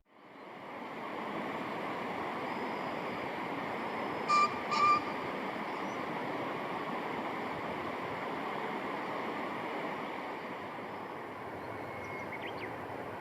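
Steady rushing outdoor noise, like running water or wind, with a bird giving two short, clear call notes about half a second apart, about four seconds in. A faint chirp comes near the end.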